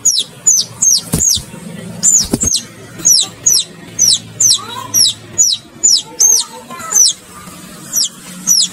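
Baby chicks peeping: a steady run of high, downward-sliding peeps, about two a second, with a short break about seven seconds in.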